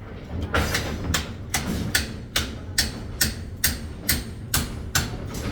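Steady hammering: a dozen or so sharp, evenly spaced blows, a little over two a second.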